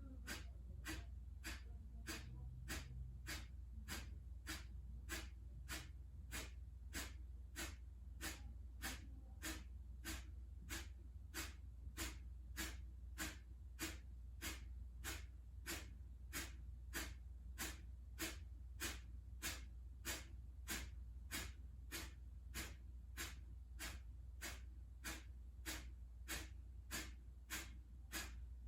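Kapalabhati breathing: short, sharp exhales forced out through the nose as the belly snaps back, evenly paced at just under two a second. A steady low hum runs underneath.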